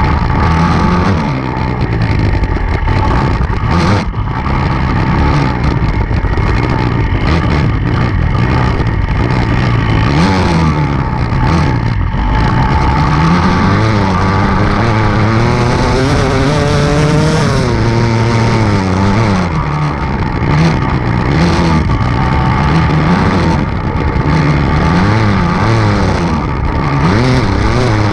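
Enduro dirt bike engine running under hard riding, its revs rising and falling again and again with the throttle, with one longer climb and drop in pitch about halfway through.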